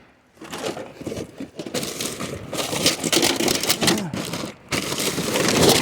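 Rapid clattering and rustling of junk being handled and dropped.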